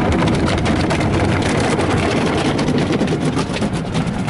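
Conveyor car wash tunnel working on a truck, heard from inside the cab: a steady, dense rush of water spray with rapid fine patter over a low rumble.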